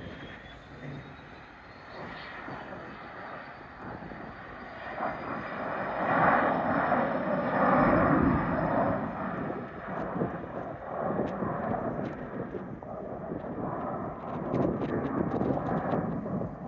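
Small propeller airplane passing by. Its engine grows louder to a peak about halfway through, then fades.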